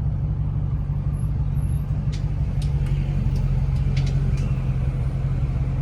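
Chrysler 300's Hemi V8 running with a steady low drone, heard from inside the cabin while driving. The driver says the car is lagging and has no power.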